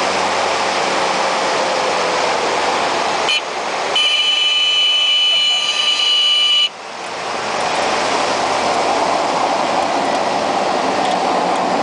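Cessna Caravan's single turboprop engine and propeller making a steady loud rushing noise. Between about three and seven seconds in, a shrill whine of several steady high tones takes over, starting and stopping abruptly.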